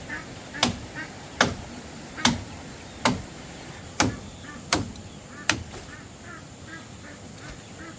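Chopping with a blade: sharp strikes about one every 0.8 seconds, seven in all, stopping about five and a half seconds in. Faint short calls, typical of poultry, sound between the strokes.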